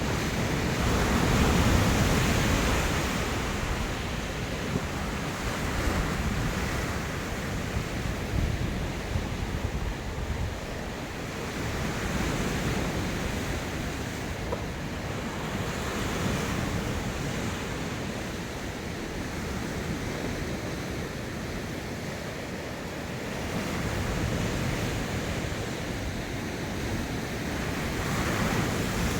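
Ocean surf: waves breaking and washing on the shore, the roar swelling and ebbing every few seconds, with wind rumbling on the microphone.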